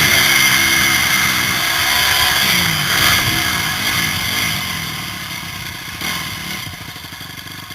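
Motocross bike engine, heard from the rider's helmet, revving up and down in repeated surges, then easing off so its note drops and grows quieter over the last few seconds.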